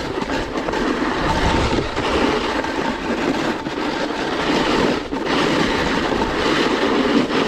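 Snowboard sliding and scraping over snow, a steady rough rasp with an uneven low rumble beneath it, briefly easing off about five seconds in.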